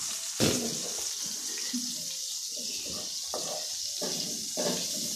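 Chicken pieces sizzling steadily as they fry in oil in a pan, with a metal spatula scraping and knocking against the pan a few times as they are stirred.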